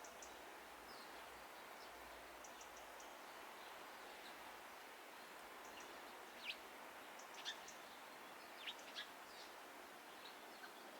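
Faint wild birds chirping: scattered short, high chirps over a steady outdoor hiss, the clearest a little past the middle.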